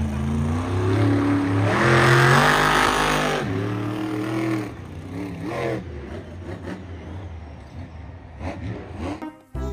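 Monster truck engine revving hard, its pitch climbing to a loud peak about two seconds in and falling away, followed by a few shorter, lighter revs.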